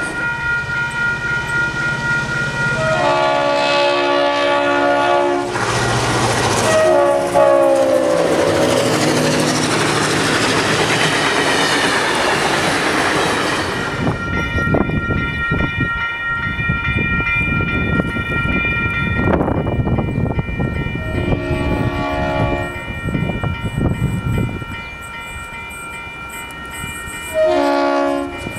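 A diesel locomotive hauling a passenger train passes close by, sounding its multi-note horn in two long blasts, the second dropping in pitch as it goes past, over the loud noise of the passing train. The train then runs on more quietly, with two short horn blasts later, the last near the end.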